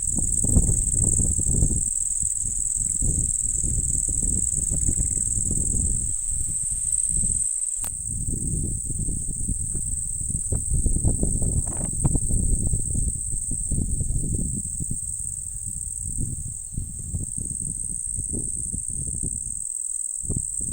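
Strong wind buffeting the microphone in rumbling gusts that rise and fall every second or so. Behind it, insects trill in one steady high-pitched note.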